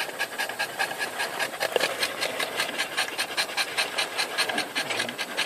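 A dog panting rapidly and evenly, close by.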